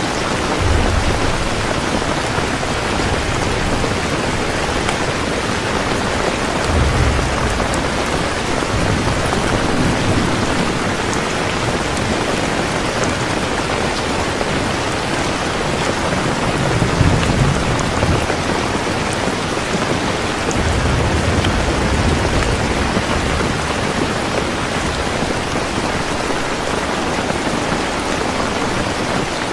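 Heavy, steady rain with rumbles of thunder rolling in several times, the strongest about two-thirds of the way through.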